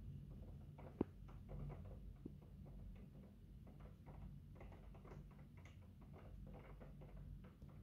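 Faint, irregular ticking and pattering of rain on a window, heard from indoors behind the glass, with one sharper tick about a second in.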